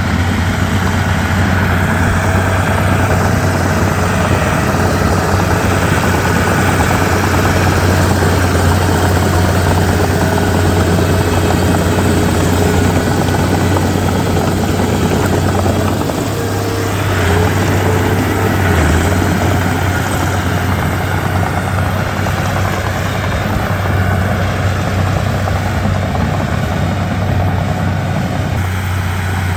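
Komatsu D31P bulldozer's diesel engine running steadily with a deep droning hum; its note shifts briefly a little past halfway through.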